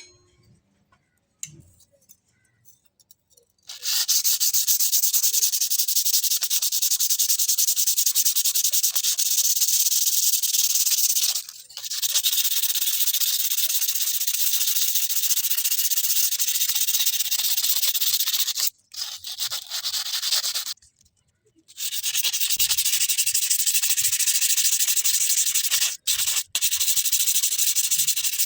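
A grinder abrading a steel knife blade: a steady, loud abrasive hiss that starts a few seconds in, stops briefly about 11 seconds in, and stops again around 19 and 21 seconds before resuming.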